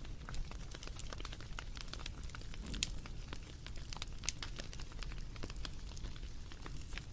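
Wood fire crackling, with irregular small snaps and pops over a low rumble; the sharpest pops come about three seconds in and again a little past four seconds.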